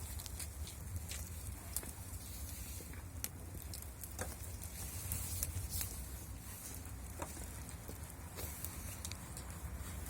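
Wood fire of burning sticks crackling in a fireplace, with irregular sharp pops over a low steady rumble.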